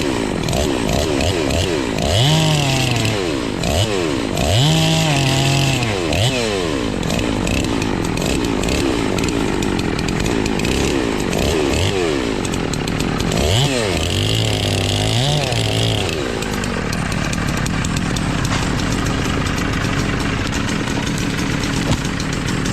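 Chainsaw revved up and down over and over, its pitch rising and falling several times, then running more steadily and a little quieter for the last several seconds.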